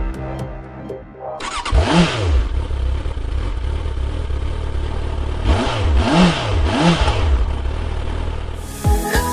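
Motorcycle engine revved with throttle blips, its pitch climbing and dropping back: once about two seconds in, then three quick blips in a row past the middle. Music fades out at the start and comes back in near the end.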